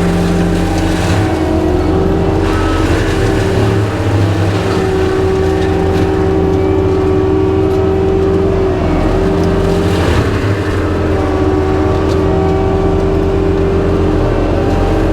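Skid steer's diesel engine running hard, driving a hydraulic forestry mulcher. The mulcher head chews through cedar brush, with several brief surges of grinding.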